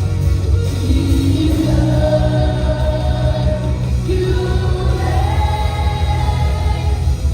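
Live church worship music: voices singing held, sweeping melody lines over a band with a steady, pulsing bass and drum beat.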